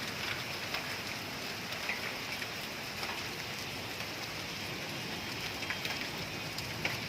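Steady rain falling on surfaces, a constant hiss with scattered sharp ticks of drops striking.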